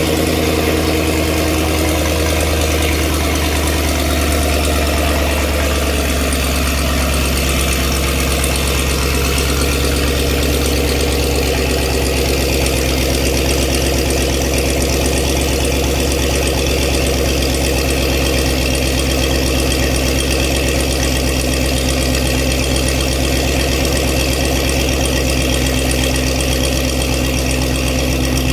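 Dodge Challenger Hellcat Redeye's supercharged V8 idling steadily through a non-resonated AWE cat-back touring exhaust with quad tips, with a deep, even exhaust note.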